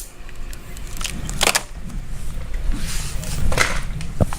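Rustling and handling noise close to the microphone, with a few short knocks and a sharp click near the end over a low rumble.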